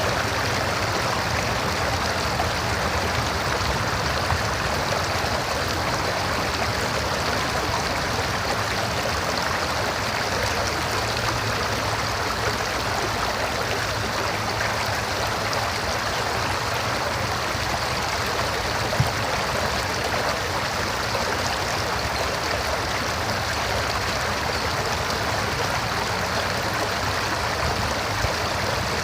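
River water flowing and rushing steadily over rocks, with a low rumble underneath.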